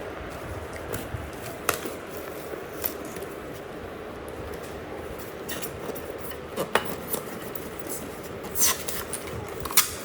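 Scattered clicks, taps and light scrapes of items being handled during an unboxing, over a steady background hiss; the louder knocks come a few seconds apart, with a short rustling burst near the end.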